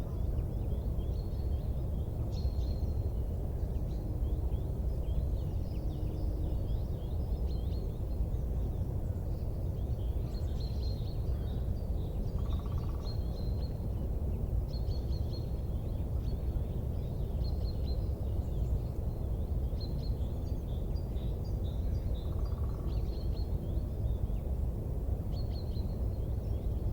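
Many small birds chirping and twittering over a steady low rumble, with two brief higher whistles partway through.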